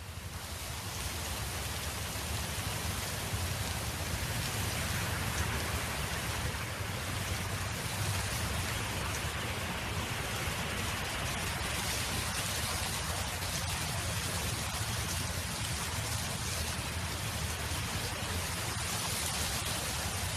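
Steady wind noise: an even, rain-like hiss with a low rumble underneath, swelling over the first couple of seconds and then holding level.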